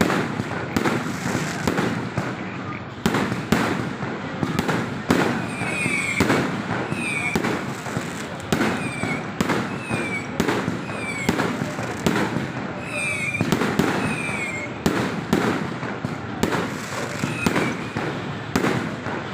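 Fireworks going off in rapid succession: repeated bangs and crackles, joined from about five seconds in by many short falling whistles.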